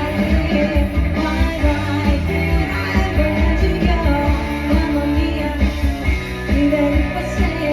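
Live band playing a rock-style song with a singer, steady drum beat and bass.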